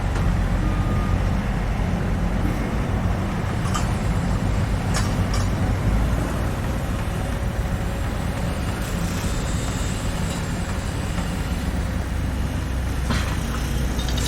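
Construction-site heavy machinery: a large vehicle's engine running with a steady low rumble, with a few short clanks about four, five and thirteen seconds in.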